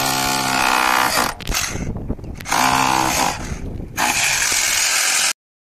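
A power tool's motor running in four bursts of about half a second to a second and a half each, with a steady hum under a loud hiss.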